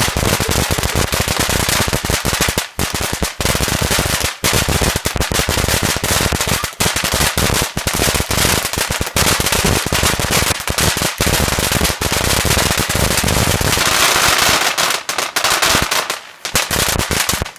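A firework going off at close range in a long, dense run of rapid bangs and crackles, stopping suddenly near the end.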